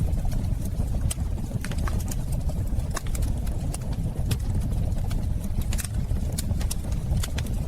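Fireplace fire crackling: a steady low rumble of flames with irregular sharp pops and snaps, several a second.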